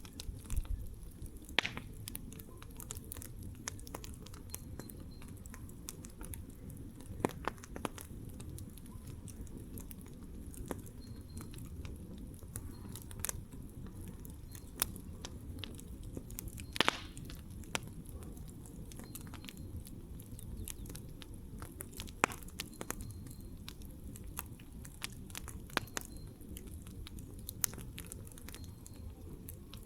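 Campfire burning with a steady low rumble of flames and irregular sharp crackles and pops from the burning wood, a few louder pops standing out.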